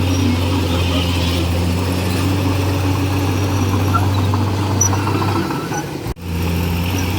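Komatsu D41E bulldozer's diesel engine running steadily with a deep, even drone. About six seconds in the sound sags and cuts out for an instant, then the same drone comes straight back.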